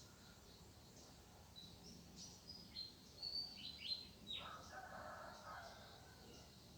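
Faint birdsong: short, high whistled chirps cluster through the middle, followed by a lower, broken bout of calling before it fades back to a faint background.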